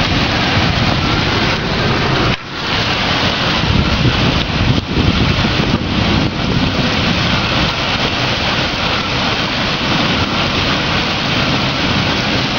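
Heavy downpour of a summer cloudburst: torrential rain hissing loudly and steadily, with a brief dip in level about two and a half seconds in.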